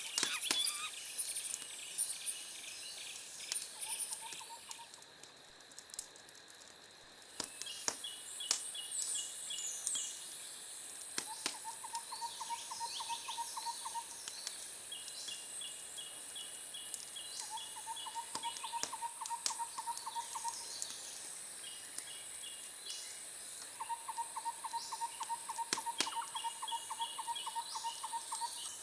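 Wood fire crackling with a few sharp pops, over a background of birds calling in repeated fast trills, each lasting two to three seconds, and a steady high insect-like drone.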